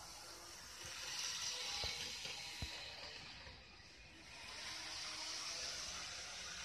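N-scale Keihan Otsu Line 600-series model train running on track: a steady hissing whir of motor and wheels. It dips a little past the middle and then rises again, with two light clicks around two seconds in.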